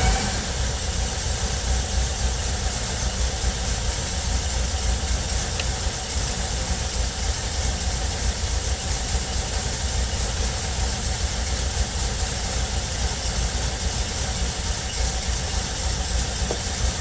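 Volkswagen Vanagon 2.1-litre engine idling steadily.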